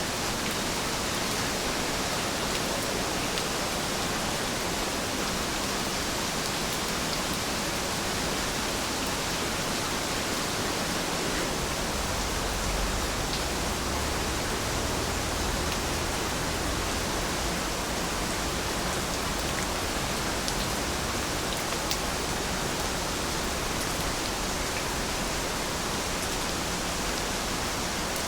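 Steady rain falling, an even hiss with a few faint drop ticks, and a slight low rumble underneath for a few seconds near the middle.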